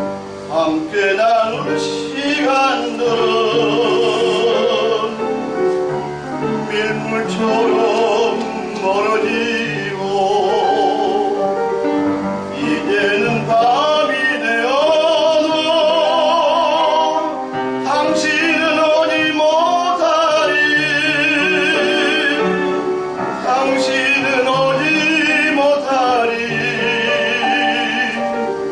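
Tenor singing in a classical, operatic style with wide vibrato on long held notes, over piano accompaniment.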